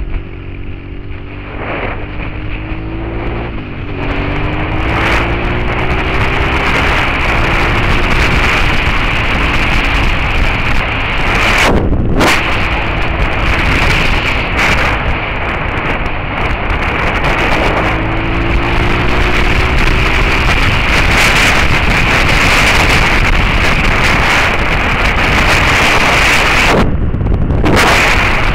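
Suzuki SV650S V-twin engine with a Beowulf aftermarket exhaust, accelerating with a rising engine note in the first few seconds and again about two-thirds of the way through. Heavy wind noise on the microphone at road speed swamps it for much of the time.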